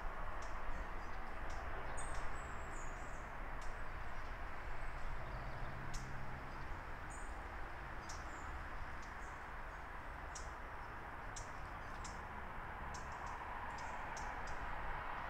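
Small birds chirping in short, high calls scattered throughout, over a steady outdoor background hiss.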